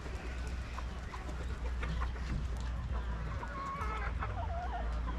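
Domestic chickens clucking, with short broken calls that come more often from about two seconds in, over a steady low rumble.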